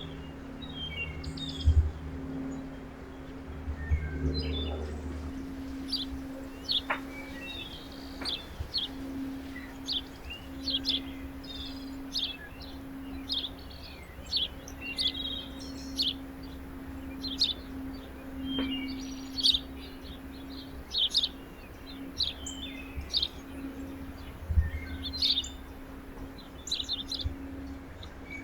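Small backyard birds chirping, with short high chirps repeating about one or two a second, busiest from the middle on. A steady low hum runs underneath, and there are a couple of soft thumps.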